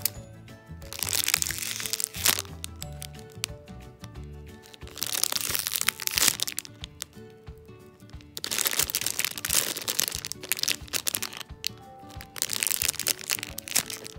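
Clear plastic bag crinkling and crackling in four bouts as a bagged squishy toy is handled and squeezed, over background music.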